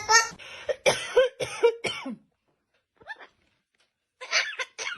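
Parrot making a string of short, cough-like sounds, then falling silent for about two seconds before another burst near the end.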